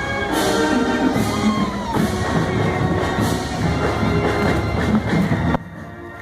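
High school marching band playing, with held notes and drum hits; the music cuts off suddenly near the end, leaving a much quieter sound.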